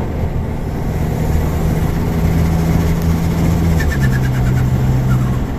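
Audi A4 2.0T turbocharged four-cylinder engine running at a steady speed with a steady drone that steps down in pitch about four seconds in.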